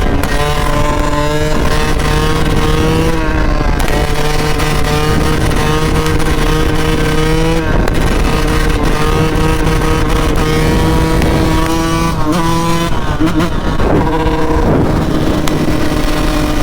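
Motorcycle engine running at road speed, heard from the rider's own bike with wind rumble on the microphone; its note holds steady for a few seconds at a time and shifts about every four seconds.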